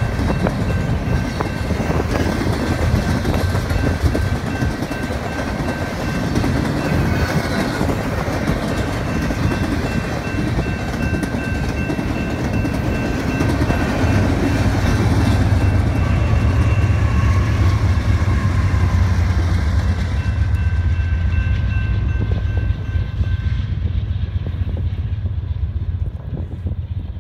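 BNSF double-stack container freight train rolling over the crossing: a steady heavy rumble of passing wagons with wheels clattering on the rails, and two steady high tones over it. The tones stop near the end, and the train sound thins as the last wagons go by.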